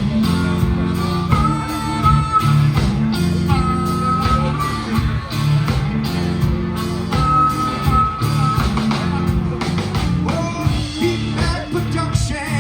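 Live band playing a rock song, with a singer and guitars over bass and drums.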